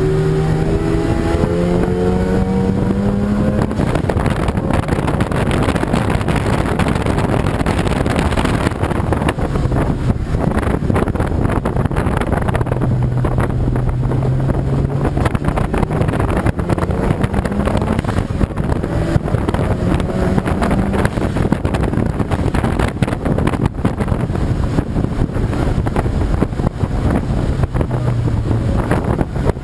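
Super Taikyu race car engines running on the circuit, their pitch rising as cars accelerate near the start and again partway through, over a dense rushing noise with wind on the microphone.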